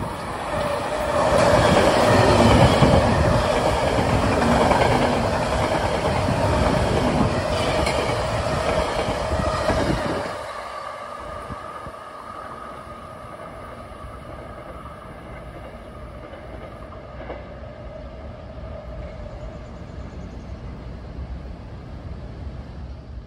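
Metro-North electric commuter train passing close by, loud for about nine seconds, then dropping off sharply as the last car goes by. A fainter steady hum with a couple of held tones trails away afterwards.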